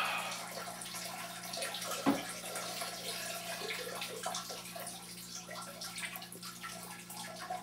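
A man urinating into a toilet, a steady stream of water splashing into the bowl, with a faint steady hum underneath.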